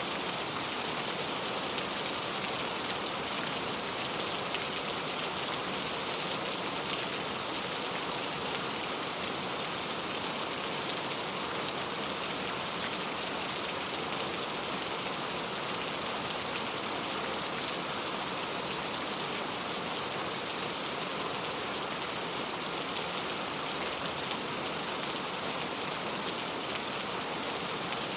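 Steady rain falling, an even, unbroken hiss of many small drops pattering on a surface.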